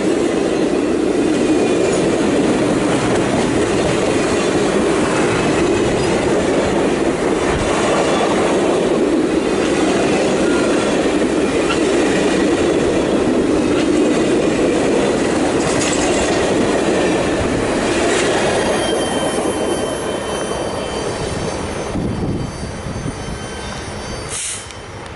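Passenger cars of a long train rolling past at close range: a steady rumble of steel wheels on the rails with clicking over the joints. Faint high wheel squeals show in the last few seconds, and the sound fades as the last car pulls away.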